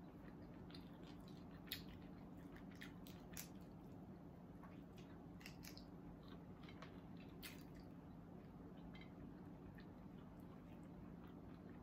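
Faint, wet chewing and lip-smacking of a person eating with their fingers, with scattered soft mouth clicks and a couple of sharper smacks in the first few seconds. A low steady hum runs underneath.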